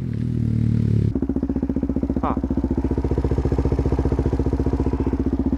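Suzuki DR-Z400SM single-cylinder four-stroke engine running through a Yoshimura RS3 exhaust. After a steady note for about a second, it changes suddenly to an even, rapid pulsing idle.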